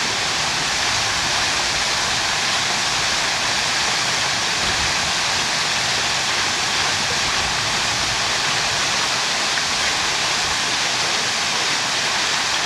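Man-made boulder waterfalls pouring into a pool: a steady, even rush of splashing water.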